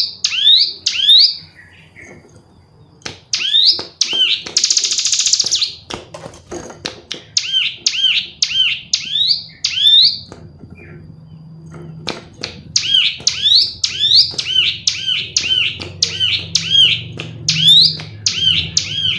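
Female ciblek gunung (a small Indonesian prinia) calling in full voice: bursts of rapid, sharp, high chirps, each slurring downward, with a brief buzzy rattle about four to five seconds in.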